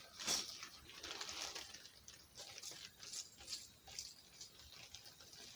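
Faint, irregular clicking and rustling of small plastic kit pieces being sorted and handled by hand.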